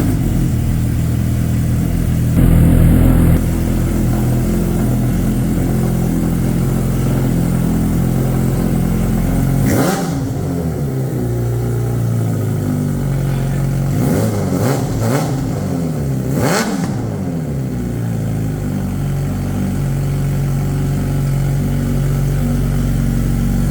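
A Kawasaki Ninja H2 Carbon's supercharged inline-four, with a Racefit exhaust, starts from cold. It flares briefly about three seconds in, then settles to a steady idle. Near the middle it takes a few quick throttle blips, rising and falling in pitch, before dropping back to idle.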